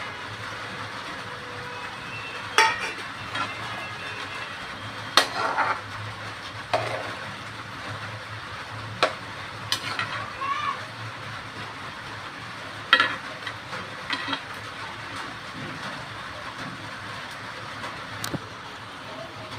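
Curry sizzling in a pan while a metal spoon stirs it, clinking and scraping against the pan every few seconds.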